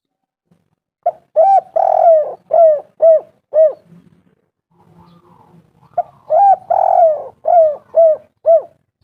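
Spotted dove (tekukur) cooing: two phrases about two seconds apart, each a run of about seven short coos with one longer coo near the start.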